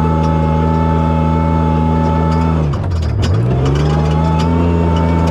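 Toyota Tacoma prerunner's engine running hard at high revs, dropping sharply as the throttle lifts about three seconds in, then revving back up within about a second. A few clicks and knocks come around the dip.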